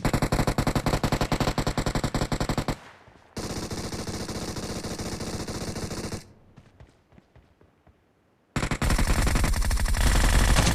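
Rapid automatic gunfire, about ten shots a second, in three long bursts with a silent pause before the last.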